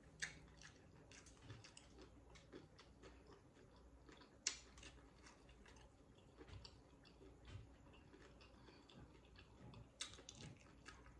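Faint chewing of loaded tortilla-chip nachos: soft, irregular mouth clicks and crunches, with three sharper ones, just after the start, about four and a half seconds in, and near the end.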